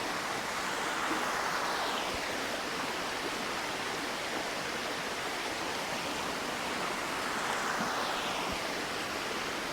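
A river flowing steadily as a constant rush of water, swelling slightly twice.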